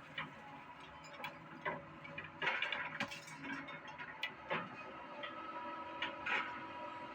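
Doosan excavator running with a steady hum, while scrap iron being shifted gives irregular metallic clanks and clicks, busiest about halfway through.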